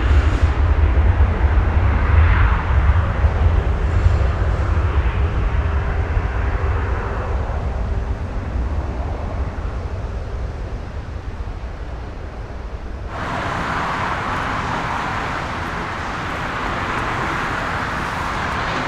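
Jet airliner's engines giving a deep rumble that slowly fades away. About two-thirds of the way through, the sound switches abruptly to a steady, higher rushing noise.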